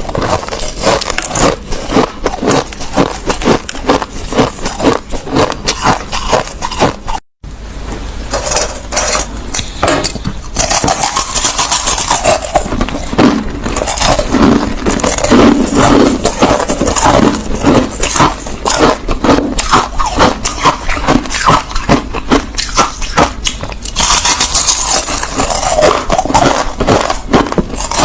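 Crushed ice being chewed close to the microphone: dense, rapid crunching and crackling, with a brief break in the sound about seven seconds in.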